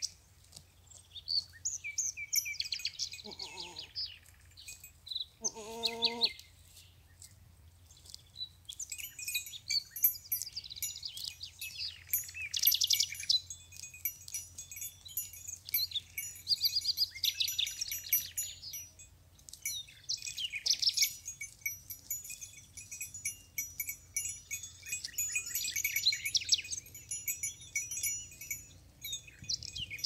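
Bells on grazing goats clanking and jingling irregularly as the animals move and feed. There is a short goat bleat about six seconds in, with a fainter one just before it.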